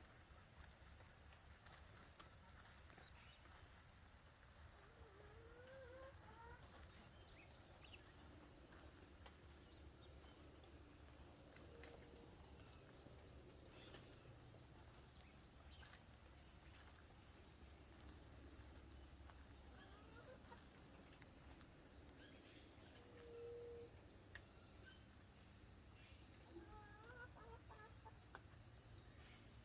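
Faint, steady chorus of crickets and other insects trilling high and continuously, with a few short rising calls from birds, likely farm fowl, around six seconds in and near the end.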